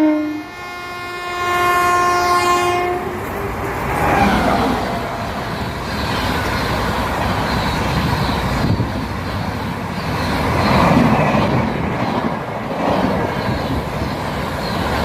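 Train horn held for a few seconds, cutting off about three seconds in. After it comes the steady rumble and clatter of the train going past, rising and falling in waves.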